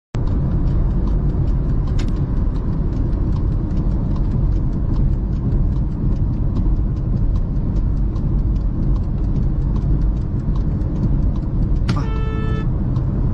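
Steady road and engine rumble of a moving car, with a sharp click about two seconds in and a short car-horn honk near the end.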